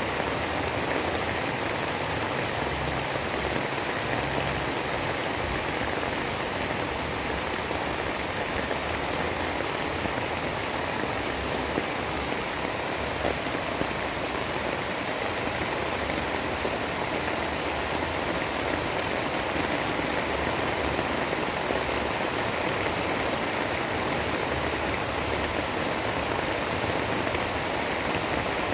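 Steady, dense storm noise like heavy rain, with a low rumble that rises and falls beneath it.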